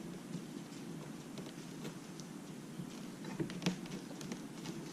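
Faint taps and clicks of fingers pressing a replacement glass digitizer into place on an iPad mini, with a couple of sharper ticks about three and a half seconds in.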